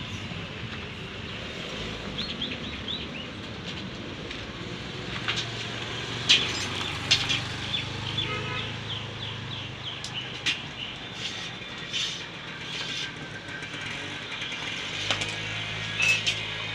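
Small birds chirping in short repeated runs over a steady low hum, with scattered sharp clicks and taps, the loudest about six and seven seconds in and near the end.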